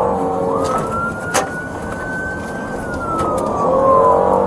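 Police car siren in its wail pattern: a quick rise about half a second in, a slow climb, then a long slow fall. It sounds over the steady road and engine noise of a car at pursuit speed, with a sharp click about a second and a half in.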